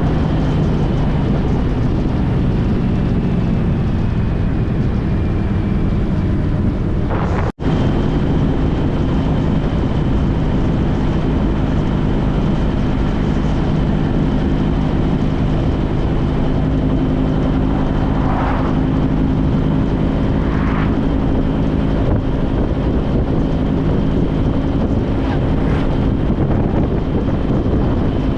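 2014 Honda CTX1300's V4 engine running steadily at cruise, with wind noise rushing over the microphone. The sound drops out for an instant about seven seconds in.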